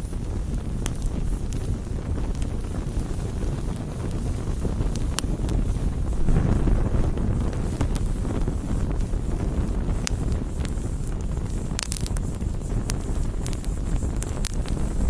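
Wood campfire burning: a steady low rushing noise with sharp crackles and pops scattered throughout. The low rush swells about six seconds in, and a few louder pops come about twelve seconds in.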